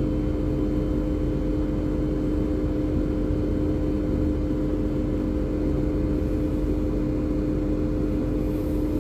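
Assist tug's diesel engines running steadily: a dense low rumble with a steady droning hum that does not change.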